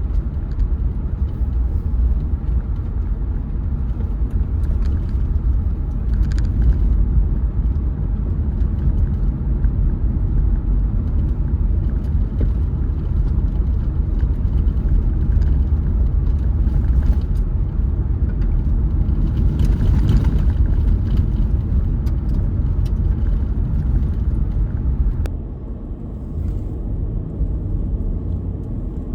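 Car driving, with a steady low rumble of road and engine noise that drops somewhat near the end.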